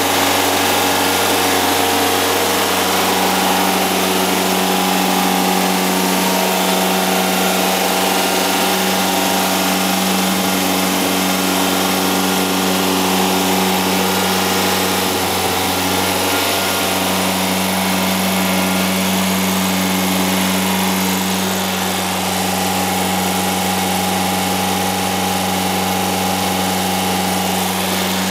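Freshly built 2.3-litre (2276 cc) air-cooled VW Type 3 flat-four engine with twin Weber 44 IDF carburettors running steadily on its first run.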